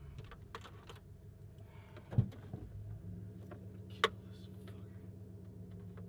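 Steady low hum inside a vehicle cab, with a single heavy thump about two seconds in and a sharp click about four seconds in.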